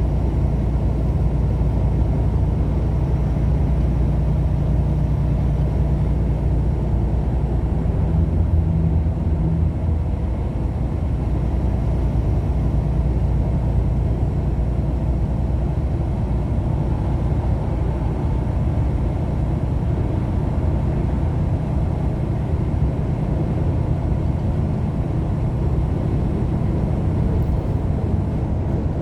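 Steady low rumble of a moving vehicle: engine and road noise at an even speed, with no change.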